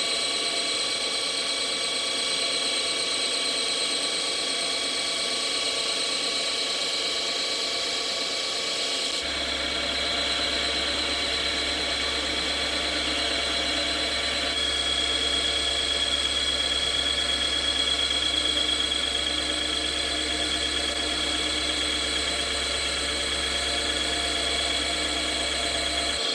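JFMT metal lathe turning a steel stud on a 3 mm-deep roughing cut under power feed: a steady high whine from the drive and gearing mixed with the hiss of the cut. The tone set changes abruptly about nine seconds in, when a low hum appears, and shifts again a few seconds later.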